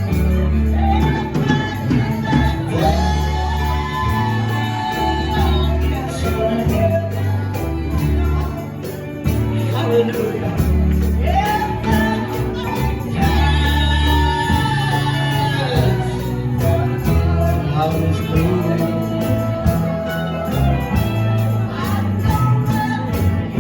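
Live gospel music: a steady bass and drum beat with tambourine, and a voice singing long, drawn-out lines over it.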